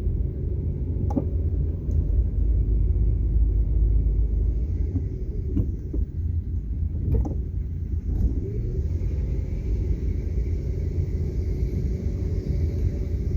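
Car driving along, a steady low road rumble with a few brief light knocks.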